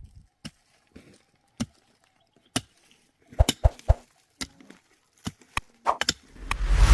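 A series of sharp, irregular knocks, like blows on wood, some in quick pairs about three and a half seconds in, then a swelling whoosh ending in a low thump near the end.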